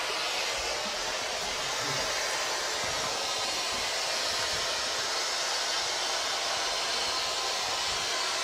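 Ghost box radio giving a steady hiss of static.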